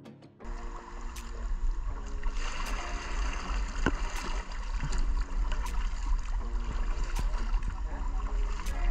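Rushing white water of river rapids: a steady loud wash with a deep low rumble, cutting in abruptly about half a second in.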